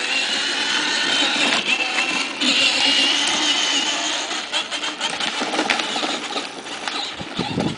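Electric motor and gearbox of a children's battery-powered ride-on motorcycle whining as it drives, a thin high wavering whine over a rough mechanical rattle, with a knock near the end.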